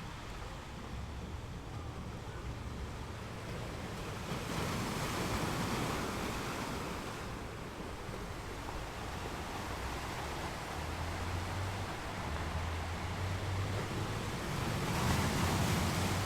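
Ocean waves washing onto a beach: a steady hiss of surf, with one wave breaking about four to five seconds in and a louder one near the end.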